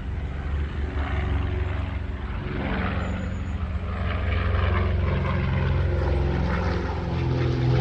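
An engine running with a steady low hum, growing louder from about four seconds in.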